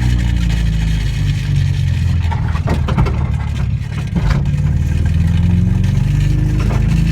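Car engine and road noise heard from inside a car moving at highway speed, the engine pitch creeping up in the second half. There are a few sharp knocks about halfway through.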